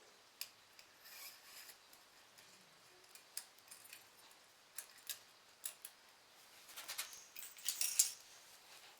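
Light clicks, ticks and short scraping sounds of small metal parts and hand tools being handled, with a louder run of rubbing and clicking near the end.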